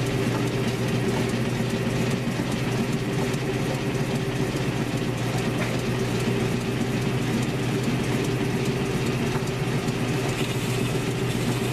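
1942 South Bend lathe running steadily at its high speed of 475 RPM, a constant mechanical whir and hum from its gears and drive while a turning cut is fed on a scooter wheel.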